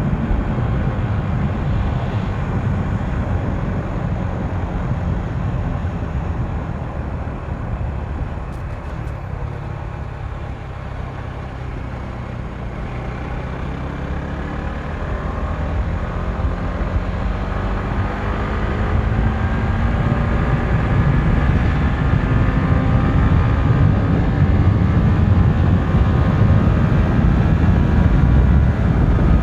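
Motorcycle being ridden at speed, its engine running under wind rush on the microphone. The engine eases off a little in the middle, then pulls again with its pitch rising steadily as the bike accelerates.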